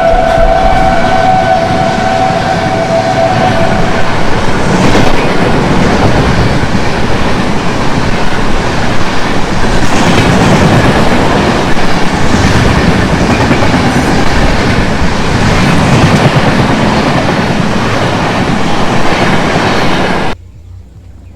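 Train horn sounding a steady two-tone note for the first four seconds. Under it and after it, a passing train's wheels rumble and clatter over the rail joints, loud, until the sound cuts off abruptly near the end.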